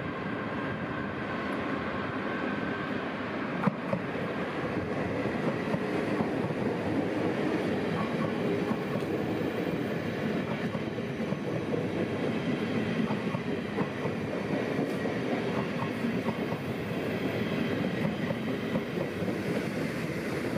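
NS ICM (Koploper) electric intercity train running past close along the platform: steady wheel-on-rail rolling noise that grows louder about five seconds in as the carriages come alongside. There is one sharp knock about four seconds in.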